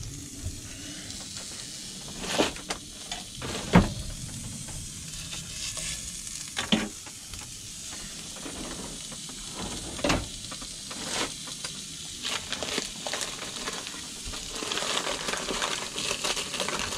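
Hot dogs sizzling in a cast iron skillet, a steady frying hiss, broken by a few sharp knocks. Near the end, utensils clatter as a drawer is rummaged through.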